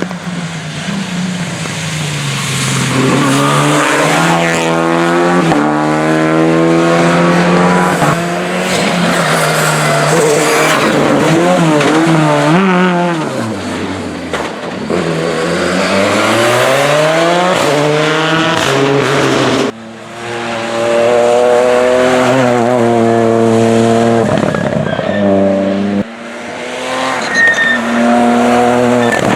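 Rally cars driven hard past the spectators, their engines climbing and dropping in pitch through upshifts and lifts on the throttle. The sound breaks off abruptly twice, about two-thirds of the way through and near the end, as one passage gives way to the next.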